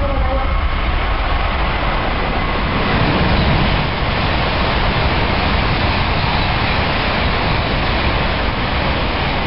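Tokaido Shinkansen high-speed train passing through the station at speed: a loud, steady rush of wind and wheels with a deep rumble, loudest about three seconds in.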